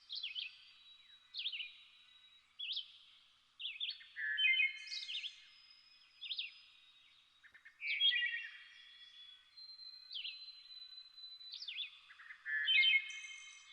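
Songbirds singing: short whistled phrases and chirps repeated every second or so, several voices overlapping, with a longer held whistle about two-thirds of the way through.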